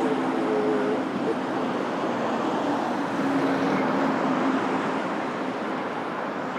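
Jet aircraft engines: a steady rushing roar with a faint low hum, slowly easing off.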